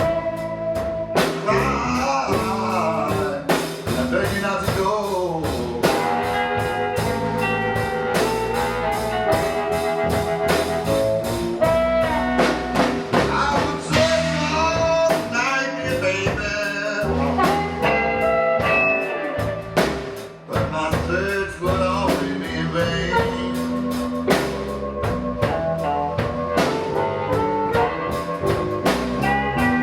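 Live blues band playing an instrumental stretch of a slow blues, a sustained lead melody line over bass and drum kit.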